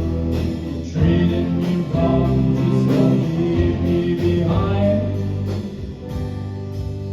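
A song played live on guitar with a sung vocal line; the voice drops out near the end, leaving held guitar notes.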